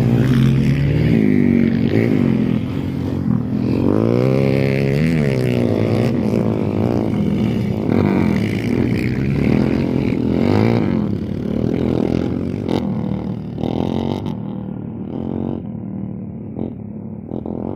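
Motorcycle engines revving, the pitch rising and falling several times, then quieter and duller near the end.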